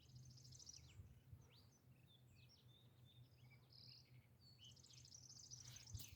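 Faint songbird chirps and two quick high trills, one at the start and one near the end, over a faint steady low hum.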